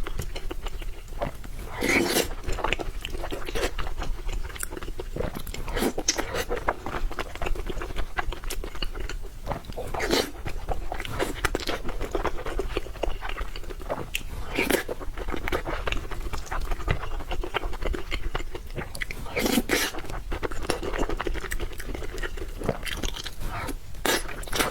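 A person eating close to the microphone: continuous chewing with crunchy bites, and a few louder bites several seconds apart.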